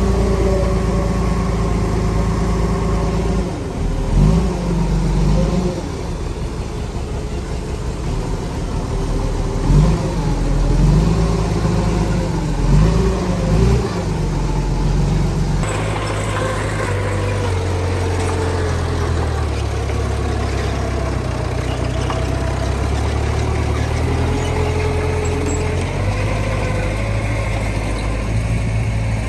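Diesel engine of earthmoving machinery running under load. It revs up and down several times between about 4 and 14 seconds in, then settles to a steadier drone.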